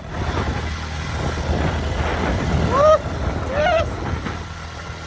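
A vehicle engine running steadily on the move, a low drone, with two short gliding pitched sounds near the middle.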